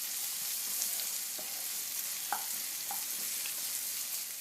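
Chopped onion frying in hot oil with ginger-garlic paste, a steady sizzle, with a few light clicks as it is stirred in the pan.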